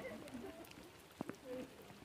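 Rain falling steadily, with a few faint short calls or distant voices over it near the start and about one and a half seconds in, and a single click.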